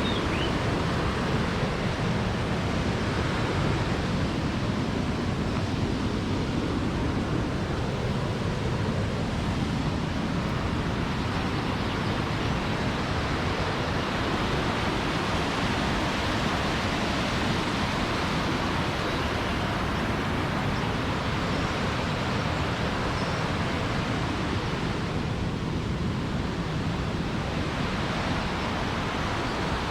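Steady, even rush of a mountain waterfall's falling water.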